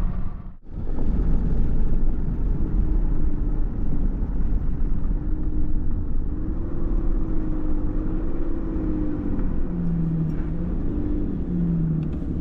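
Pickup truck towing a loaded trailer at highway speed, heard from inside the cab: steady low engine and road rumble with a faint wavering hum. The sound drops out briefly about half a second in.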